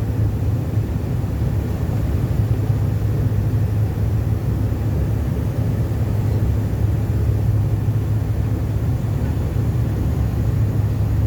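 Airliner cabin noise: a steady low drone of engines and airflow heard from inside the passenger cabin.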